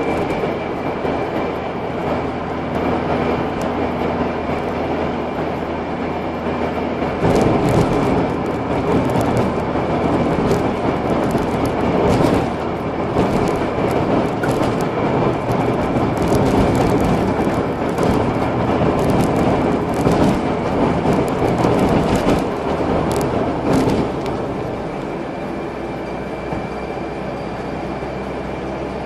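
Car driving, heard from inside the cabin: steady engine and road noise. It grows louder with scattered knocks about seven seconds in, and eases off near the end.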